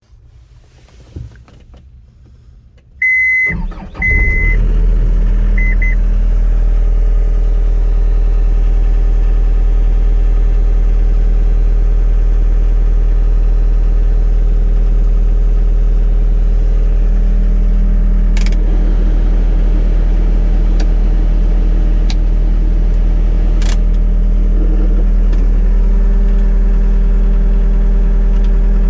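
Yanmar 3.3 L four-cylinder diesel of a John Deere 324E skid steer starting with warning beeps about three seconds in, catching within about a second, then running steadily at idle.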